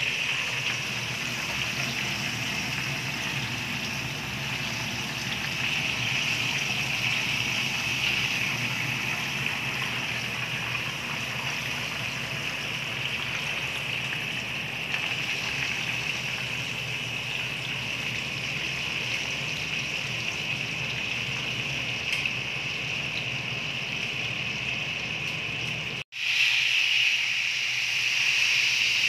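Breaded chicken pieces frying in a skillet of hot oil: a steady sizzle, with a momentary break near the end.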